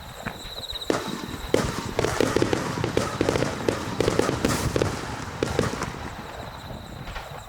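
Aerial fireworks bursting in quick succession: a dense string of sharp bangs and crackles that starts about a second in, is thickest in the middle and thins out near the end.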